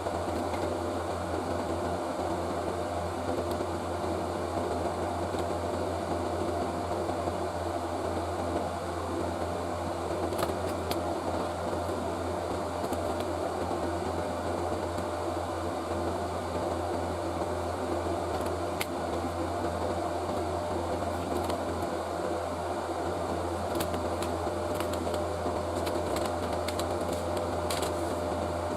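Steady hum and whir of an electric fan, with a few faint light clicks now and then.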